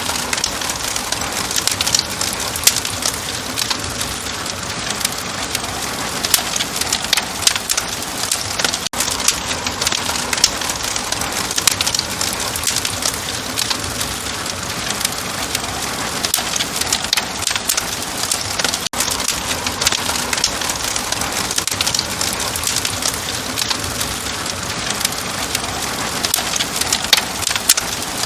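Wood fire crackling steadily, a dense hiss full of small sharp pops and snaps.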